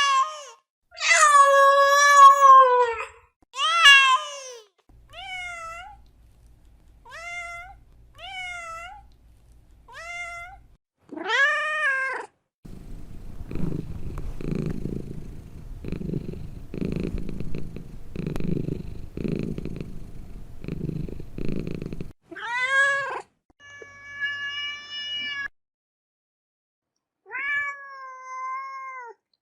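Domestic cat meowing repeatedly: a run of short and drawn-out meows that rise and fall in pitch. Midway, about nine seconds of low purring that pulses roughly once a second, then three more meows near the end.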